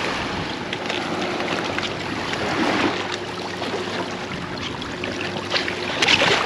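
Surf washing up the beach, a steady rushing wash of water with small scattered clicks.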